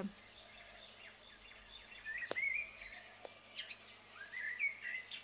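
Small birds chirping in short rising and falling calls, starting about two seconds in and repeating several times, with one sharp click just after the first chirps.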